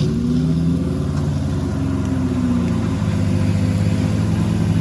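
Off-road 4x4's engine running under load, its pitch rising at first and then easing down to a steady drone about halfway through.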